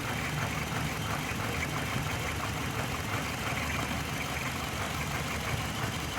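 2005 Hyundai Matrix engine idling steadily. The car has a cylinder 2 misfire code (P0302), which the mechanic puts down to unevenly matched fuel injectors.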